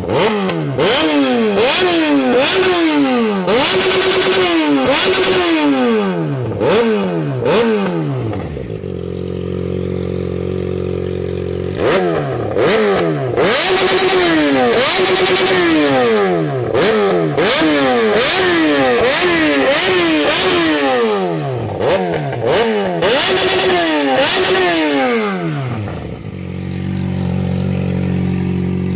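Large-displacement motorcycle engine revved in a long string of quick throttle blips, each one rising and falling in pitch. It drops back to a steady idle about nine seconds in, blips again from about twelve seconds, and settles to idle near the end.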